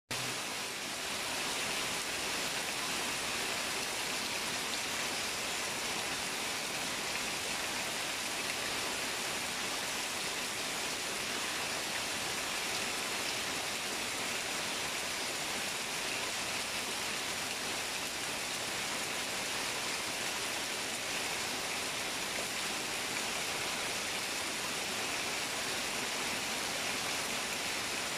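Heavy rain falling steadily on trees and a roof: an even, unbroken hiss that holds the same level throughout.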